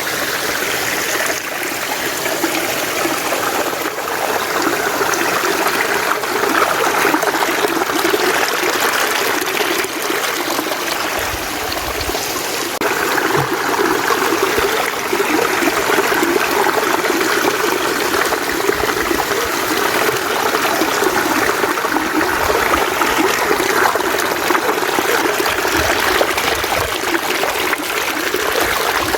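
Mountain stream running steadily, close up.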